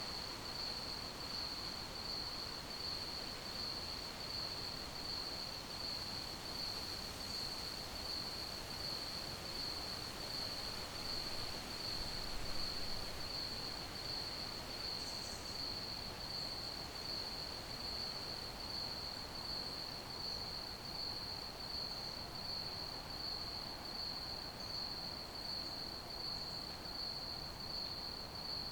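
Crickets chirping in one steady, evenly pulsing high trill over a soft background hiss.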